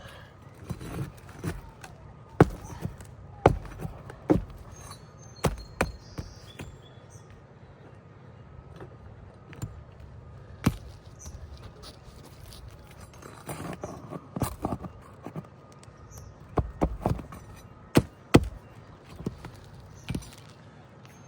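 Irregular sharp knocks and scraping as a shingle nail-removal tool is worked under asphalt roof shingles to free the nails, with a cluster of knocks in the first few seconds, a single one around eleven seconds in, and another cluster near the end.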